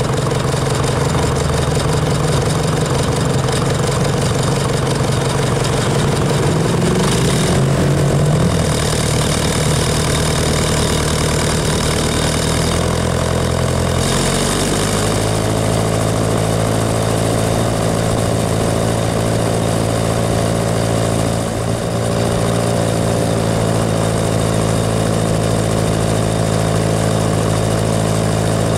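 Tractor engine running steadily. Its note wavers about seven seconds in, then rises to a higher, steady pitch about fourteen seconds in.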